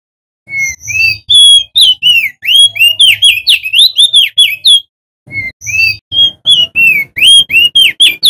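Male opior jambul (crested white-eye) singing a fast, loud run of short whistled notes that slide up and down. The song pauses briefly about five seconds in, then picks up again.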